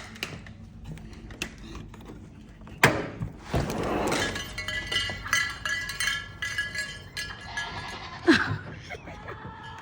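Scattered knocks and clinks, with two sharp bangs: one about three seconds in and another near the end.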